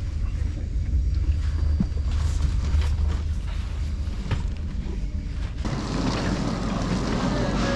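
Passenger train interior: a deep, steady rumble with a few sharp clicks. About five and a half seconds in, the sound cuts abruptly to a brighter, busier ambience carrying a few faint steady tones.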